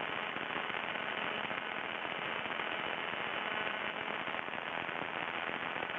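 Steady crackling radio static on the aircraft's radio and intercom audio feed between transmissions, the bad crackle that the radio had all through the flight.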